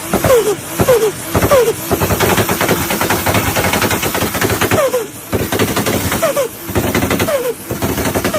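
Turbocharged Toyota Supra MK4 2JZ inline-six being blipped repeatedly, each throttle lift followed by a short falling chirp of turbo flutter (compressor surge), with a fast rattling flutter through the middle stretch.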